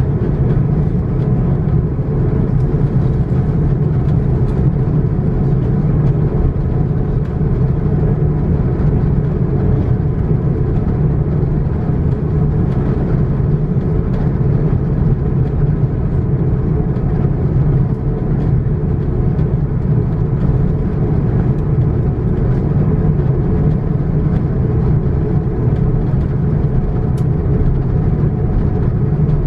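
Steady cabin noise inside an Airbus A330-941 (A330neo) with its Rolls-Royce Trent 7000 engines at low taxi power: an even, unbroken low hum with no change in level.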